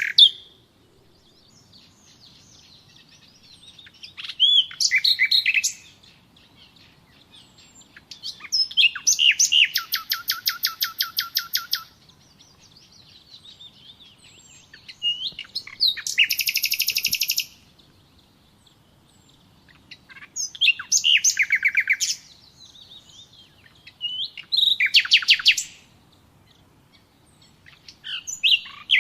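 A songbird singing the same kind of phrase over and over, about every four to five seconds. Each phrase is a fast trill of rapid repeated notes lasting one to three seconds, with fainter chirps from other birds in the pauses.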